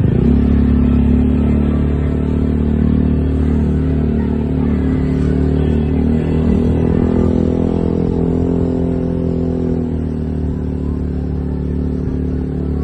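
An engine running with a steady low drone that eases slightly about ten seconds in.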